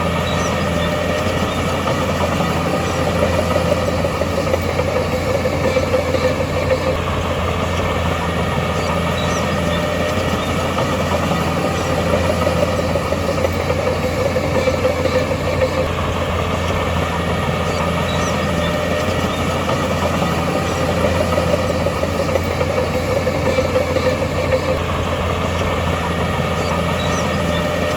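Heavy diesel engine of earthmoving machinery running steadily, rising and falling a little in level every few seconds.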